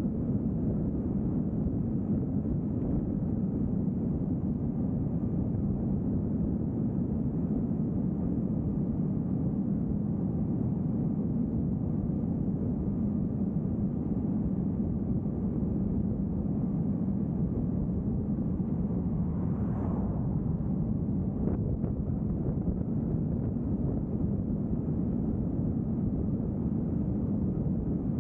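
Steady low rumble of a vehicle driving along a road: engine and tyre noise at an even speed. A brief faint extra sound shows about 20 seconds in.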